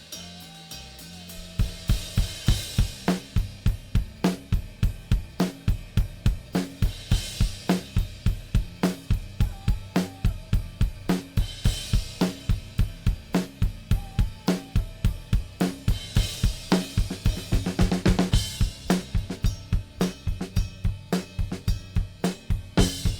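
Multitrack recording of a drum kit played back dry, without compression: kick, snare, hi-hat and cymbals in a steady, quick beat that starts about a second and a half in, with a crash cymbal swelling a little past the middle.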